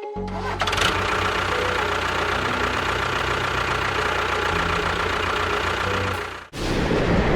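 An engine-like motor running steadily with a low chugging. It cuts off abruptly about six and a half seconds in, and a rougher, noisier rumble takes over.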